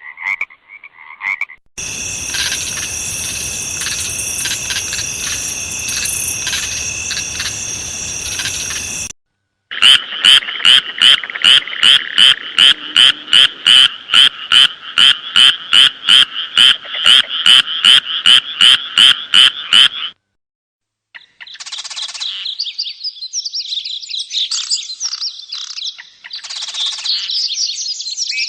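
A run of frog sound-effect clips: croaking calls, then a dense, steady chorus of frogs. Next comes a single loud frog call repeated about twice a second for ten seconds, and near the end high twittering chirps.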